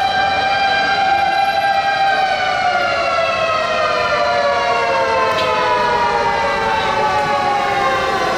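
Fire engine siren wailing: one loud, steady tone that slowly falls in pitch from about two seconds in.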